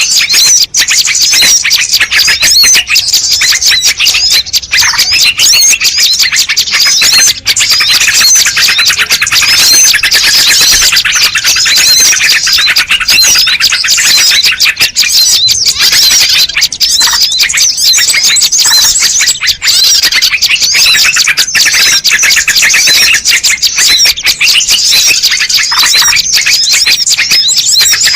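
Loud, dense chorus of many small birds chirping and trilling at once, with calls overlapping without a break: a bird-lure recording played to draw wild birds in.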